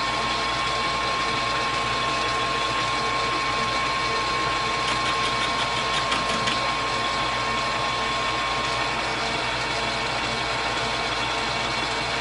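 Metal lathe running at a steady spindle speed: an even motor hum with a constant whine and a few faint ticks in the middle.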